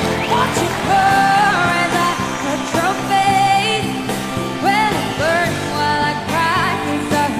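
A song with a voice singing long, bending, wavering notes over steady instrumental backing.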